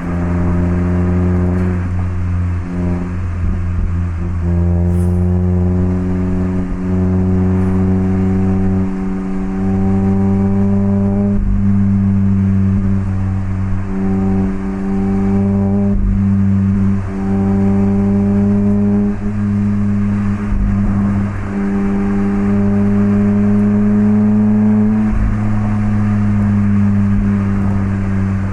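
Mazda MX-5 ND roadster's 1.5-litre inline-four engine running through an HKS Legamax Sports aftermarket exhaust while driving. The exhaust note climbs gently in pitch over long stretches and dips briefly several times, with throttle and gear changes.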